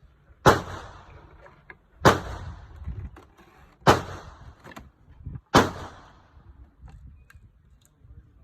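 Four loud, sharp bangs, evenly spaced about a second and a half apart, each dying away quickly.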